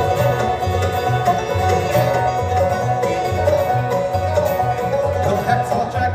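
Bluegrass band playing an instrumental passage: rapid banjo picking over a bass line that alternates between two low notes, with guitar.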